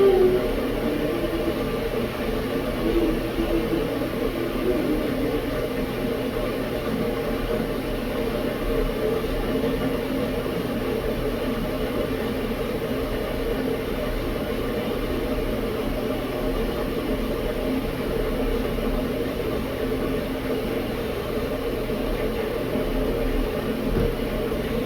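Tea kettle heating water, a steady hum that does not change.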